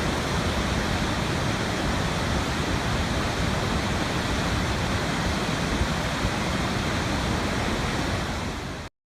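Steady rushing water, a dense even roar, cutting off abruptly near the end.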